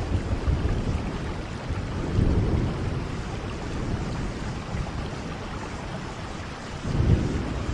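Steady rain, with a low rumble that swells about two seconds in and again near the end.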